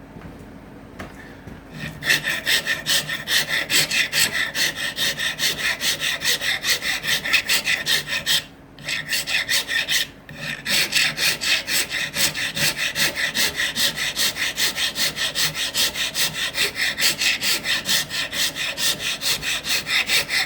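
Acacia wood being smoothed by hand with an abrasive in rapid back-and-forth strokes, about three a second, starting about two seconds in and pausing twice briefly near the middle.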